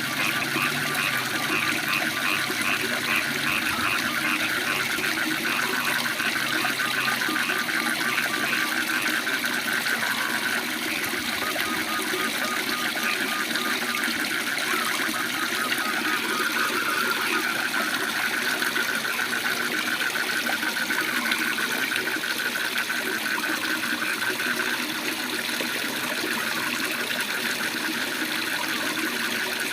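Steady rush of a waterfall, with frogs calling over it in fast pulsed trills that start and stop throughout.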